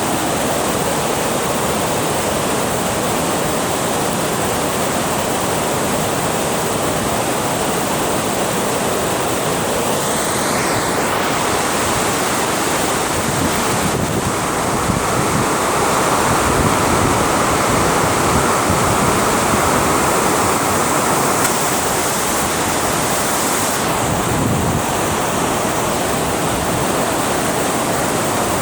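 Steady rushing of water pouring through a dam, with wind buffeting the microphone; it swells slightly in the middle.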